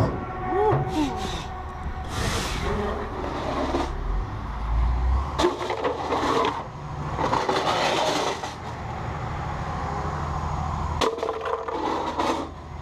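Heavy diesel dump truck running low and steady, with several hissing bursts of about a second each and a brief squeal near the start.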